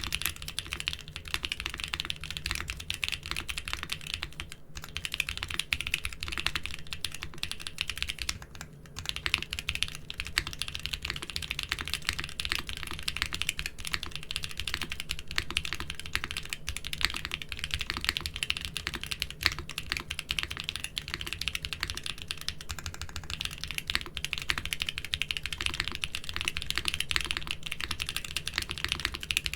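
Fast continuous typing on a mechanical keyboard fitted with doubleshot plastic keycaps, a dense stream of key clicks and bottom-out clacks. There is a brief lull about nine seconds in, where one keycap set is swapped for the next.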